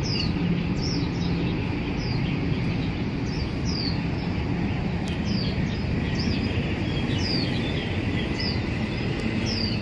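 Small birds chirping: short, high chirps that slide downward, repeating about once a second over a steady outdoor background hum.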